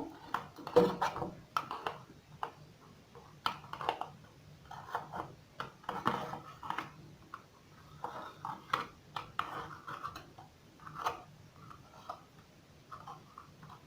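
Plastic vacuum cleaner parts being handled and turned over, giving irregular light clicks, knocks and rattles.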